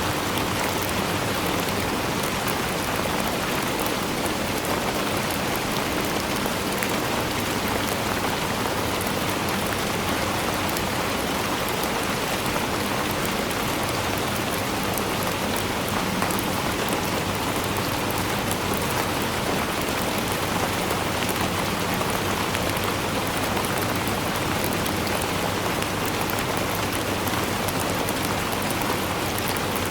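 Steady, dense rainfall, drops pattering on a surface with a constant hiss and no let-up.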